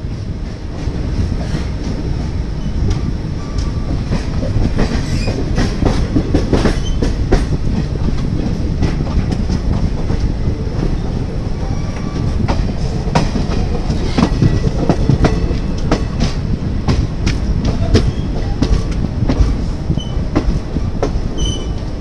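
Passenger express train coach rolling along the track: a steady rumble with frequent clattering clicks of the wheels over rail joints and points, and brief faint wheel squeals.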